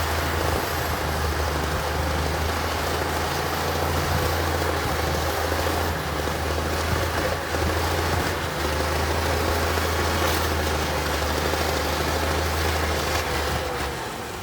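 Heavy diesel engine of earthmoving equipment running steadily with a low, even hum.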